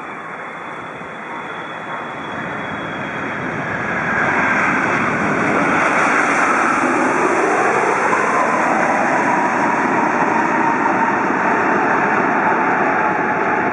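Jet airliner's turbofan engines running loud: the roar grows over the first four seconds, then holds steady with a whine across it.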